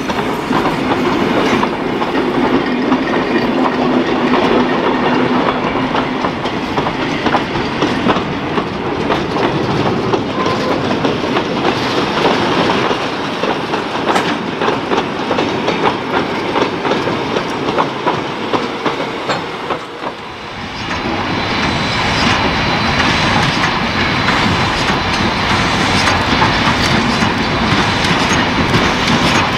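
Carriages and four-wheel goods wagons of a steam-hauled mixed train rolling past close by, wheels clicking over the rail joints. About twenty seconds in it cuts to a Victorian Railways K class 2-8-0 steam locomotive approaching under steam, its running noise louder and brighter.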